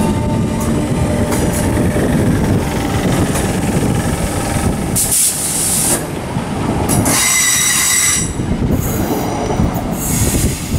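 Class 319 electric multiple unit running past on the curve, its wheels rumbling on the rails. About seven seconds in, a high wheel squeal rings out for a second or so.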